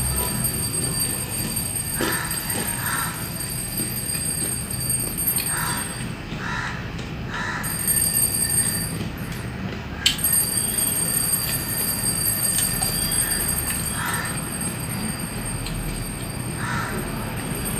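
A person chewing fried snacks close to the microphone, with soft, irregularly repeated chewing sounds and one sharp crunch or click about ten seconds in.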